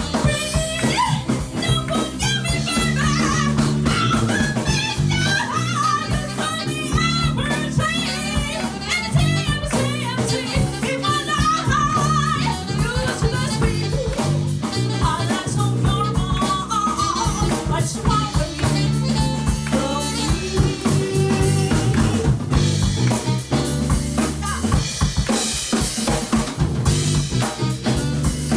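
A band playing live: a drum kit with bass drum and snare keeps a steady beat under sustained bass notes and a wavering melodic line.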